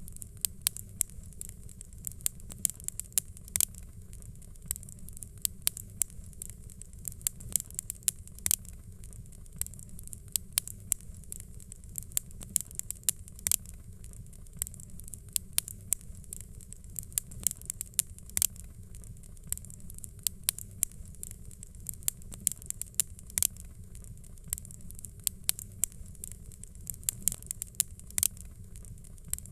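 Fireplace fire crackling: frequent sharp pops and snaps, several a second, over a steady low rumble.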